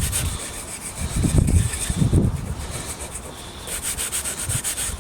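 Quick, rhythmic back-and-forth rubbing on the old wooden doorstop, in spurts of several strokes a second. Low gusts of wind buffet the microphone about a second in.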